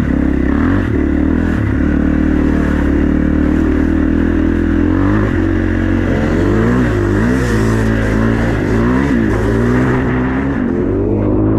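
Dirt bike engine running under way, holding a steady pitch at first, then revving up and down repeatedly through the second half.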